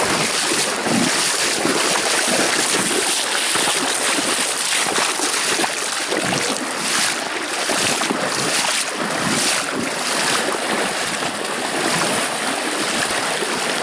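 Fast river water rushing steadily over a shallow stretch, a loud constant roar of current.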